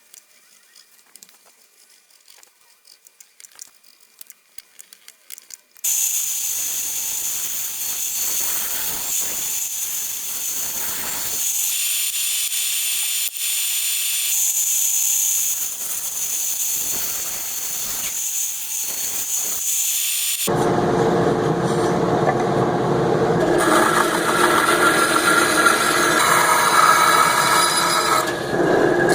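Faint clicks and taps, then about six seconds in a power tool starts working wood with a steady, hissing noise. About twenty seconds in this changes to a louder, fuller rubbing sound, like wood being sanded, that runs on to the end.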